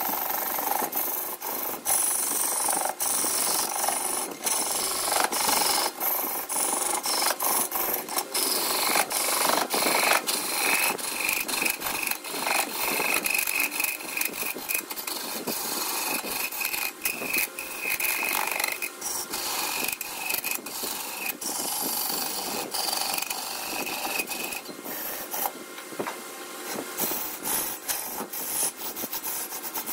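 Wood being worked on a spinning wood lathe: a continuous rough rasping of a tool against the turning wood, broken by many short sharp clicks. A steady high whine joins in for several seconds in the middle.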